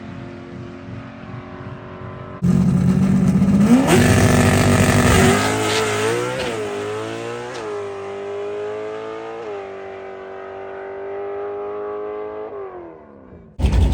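Drag-racing car launching hard down the strip, its engine climbing in pitch through about four gear changes, then fading as it pulls away.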